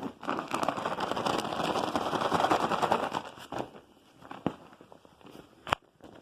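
Dry debris being poured out and scattered, a dense crackling rustle for about three seconds, followed by a few sharp separate clicks.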